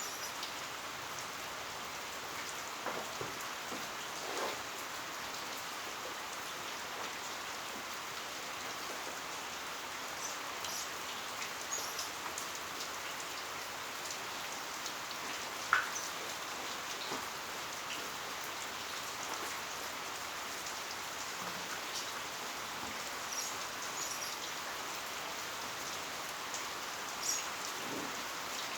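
Heavy rain falling steadily, a constant hiss with scattered drip and drop taps, one sharper tap about halfway through.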